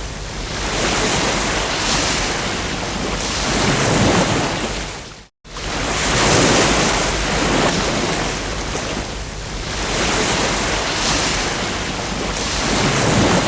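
Ocean surf: waves breaking and washing up on a beach, the wash swelling and ebbing every few seconds. About five seconds in the sound cuts out for an instant and comes straight back.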